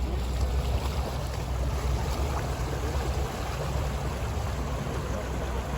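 Steady rush of water and wind from an electric boat under way. Its electric motor makes almost no sound of its own.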